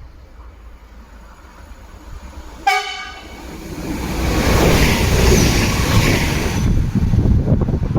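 Arriva Stadler WINK hybrid train giving one short horn toot, then passing at about 130 km/h: the noise of its passing builds to a loud peak a couple of seconds after the toot and falls away into a low rumble with buffeting wind.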